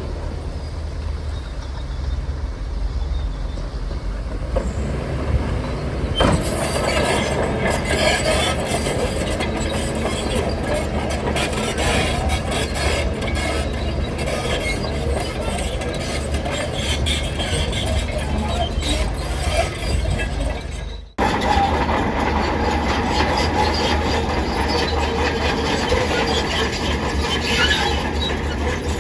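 Shantui crawler bulldozer's diesel engine running steadily under load, with its steel tracks clanking and squeaking. It grows louder and busier about six seconds in and cuts out for a moment about 21 seconds in before carrying on.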